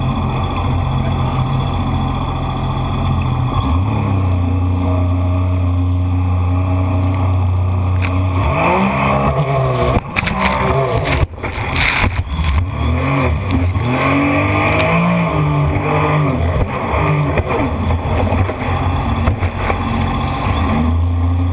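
Jet ski engine running, steady at first, then revving up and down repeatedly from about eight seconds in, with a brief break in the sound a little before halfway through the revving.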